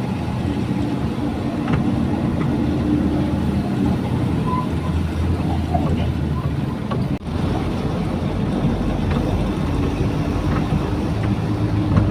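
Truck engine running steadily while driving, heard from inside the cab, with occasional knocks and rattles from a rough, rain-damaged road. The sound drops out for a moment about seven seconds in.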